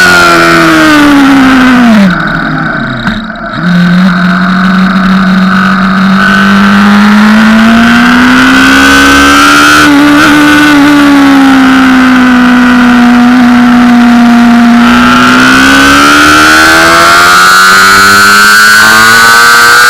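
Honda CBR600RR's inline-four engine, heard from on the bike at track speed. The revs fall sharply and the sound drops off briefly about two seconds in, then the engine pulls back up under throttle, eases a little midway and climbs again near the end.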